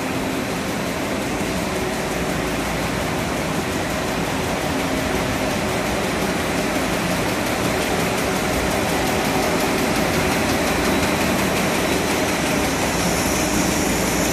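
Paper slitting and sheeting machine running steadily: a dense, even mechanical noise with a faint hum, and a higher hiss joining near the end.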